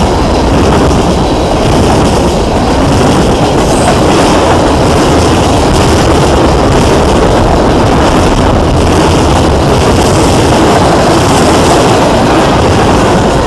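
A train rolling past, its cars making a steady, loud noise of wheels on the rails.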